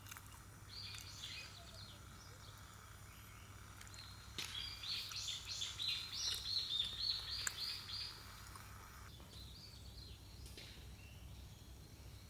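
Faint bird calls: a short chirping phrase about a second in, then a longer run of rapid, repeated high chirps from about four seconds in, over a faint steady background hum.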